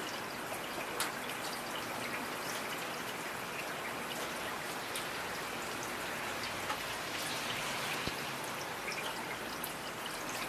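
Steady rain with individual drops ticking and pattering on a surface.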